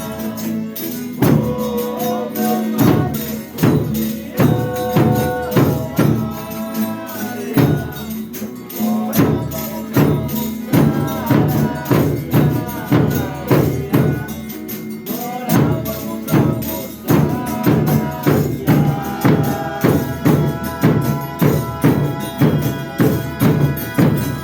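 Folia de Reis folk music played by instruments alone: a tambourine keeps a steady beat of about two strikes a second under sustained pitched instrument notes.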